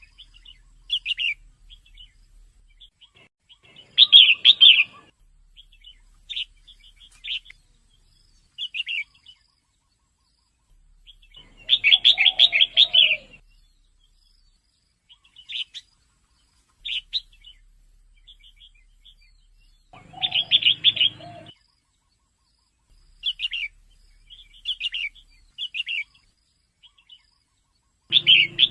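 Female red-whiskered bulbul calling: short chirping notes again and again, broken three times by louder bursts of rapid chattering notes about a second long.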